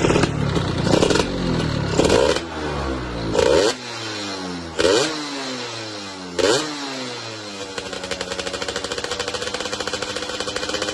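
Yamaha F1ZR two-stroke moped engine revved in five short bursts, its pitch falling away after each one, then settling into a steady, evenly pulsing idle near the end.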